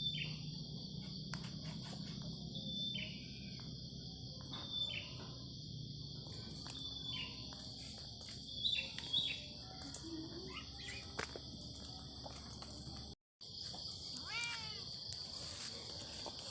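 Forest ambience: a steady, high-pitched insect drone, with a bird giving short calls that slide downward, repeated every second or so. A few light clicks and rustles are mixed in.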